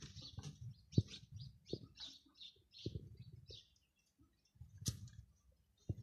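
Birds chirping in many short, high notes, with a few sharp knocks and low bumps among them.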